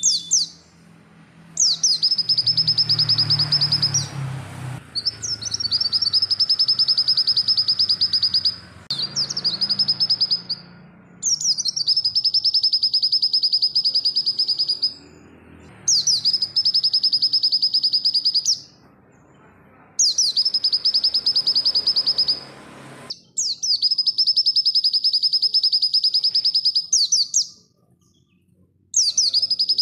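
White-eye (pleci) singing in repeated bouts of rapid, high-pitched trilling chatter, each bout lasting a few seconds with short pauses between.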